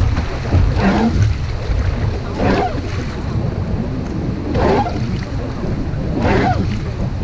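Wind buffeting the microphone over the rush of river water during a boat ride down a river, with a brief swish about every two seconds.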